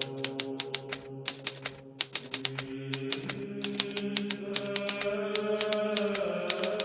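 Hermes Baby portable typewriter being typed on: sharp key strikes in an irregular run of several a second, over background music of steady held tones that shift pitch near the end.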